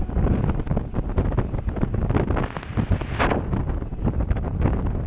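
Heavy wind buffeting the microphone aboard a fishing boat running through choppy waves, with irregular knocks throughout and a brief rushing burst about three seconds in.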